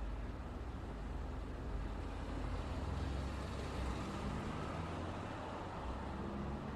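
Road traffic passing: a steady wash of tyre and engine noise with the low hum of heavier vehicles, swelling slightly about halfway through as a vehicle goes by.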